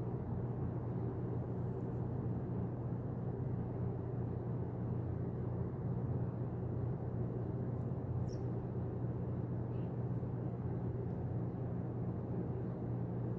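Steady low background rumble of outdoor noise, with a brief faint high chirp about eight seconds in.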